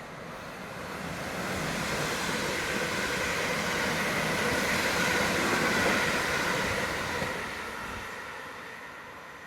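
Train passing on the line, its wheel and rail noise swelling to a peak about six seconds in, then fading away.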